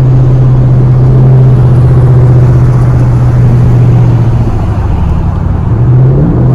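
Car engine with a loud aftermarket exhaust, running steadily at a constant drone. The note sags about four and a half seconds in, then rises again near the end as the throttle comes back on.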